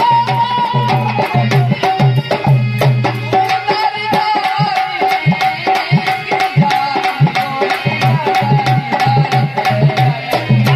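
Dholak drumming a steady folk rhythm for a dehati bhajan, under a held, wavering melody line from an accompanying instrument.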